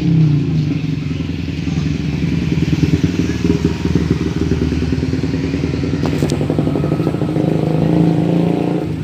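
An engine running steadily at an even speed, with a brief click about six seconds in.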